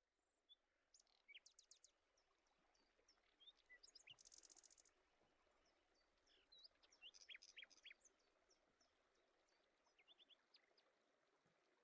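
Faint birdsong: songbirds chirping in short rising and falling whistles, with a fast high trill about four seconds in.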